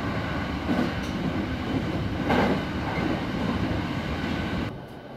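Train running along the track: a steady rumble and rattle that swells about two seconds in and drops away sharply near the end.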